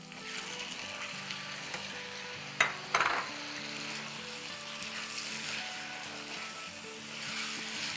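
Raw chicken breast chunks sizzling in hot oil in a wok while being stirred with a silicone spatula, with two sharp knocks about two and a half and three seconds in.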